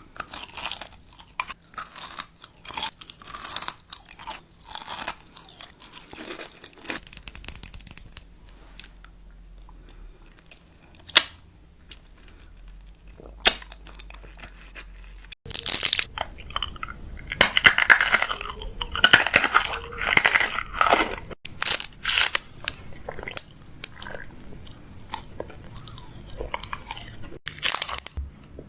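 Crunchy chewing and biting, a run of short crackly crunches. The crunching gets louder and denser about halfway through.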